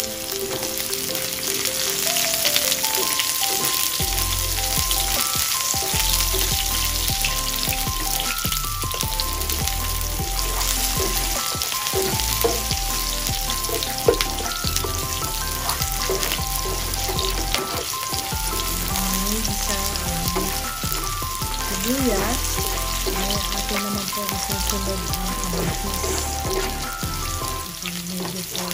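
Chopped garlic and sliced red onion sizzling in hot oil in a nonstick frying pan, stirred now and then with a plastic slotted spatula, as the garlic browns to golden. Background music plays over it, with a bass line coming in about four seconds in.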